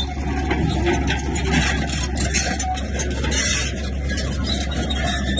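Bulldozer at work: its diesel engine runs steadily under load, with continuous scraping and clatter.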